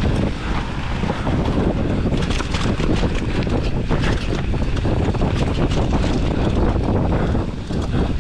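Wind buffeting the microphone of a camera riding along on a mountain bike at speed down a dirt trail. Under it run tyre noise and a steady patter of quick clicks and rattles from the bike over rough ground.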